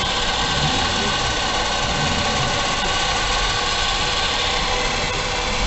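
Car engine running steadily with a constant whining noise from the engine side, which the owner puts down to the alternator, its bearing noisy after driving through waterlogged roads.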